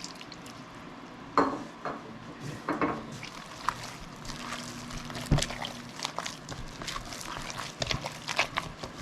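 Hands mixing and kneading wet ground sausage meat in a bowl with water just added: irregular squelches and sticky clicks, with a sharp knock a little past the middle.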